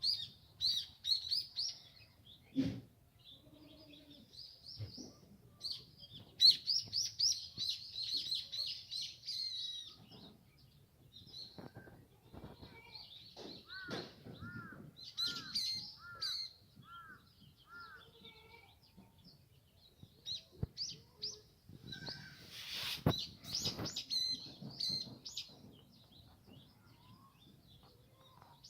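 Small birds chirping and twittering in repeated bursts, with a run of five lower, arched notes about halfway through. A few soft knocks, the loudest a little past two-thirds of the way in.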